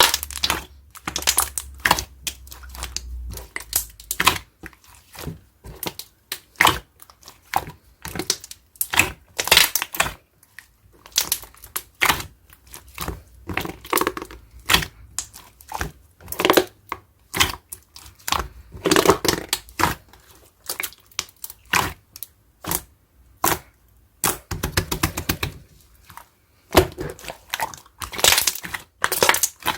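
Hand-played slime being squeezed, pressed and stretched, giving irregular runs of sharp crackling and popping clicks.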